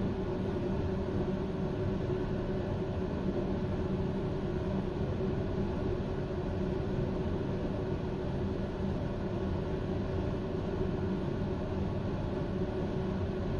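Steady hum of a standing passenger train, its onboard equipment running while the train is stopped. It holds a constant pitch, with no wheel or rail noise.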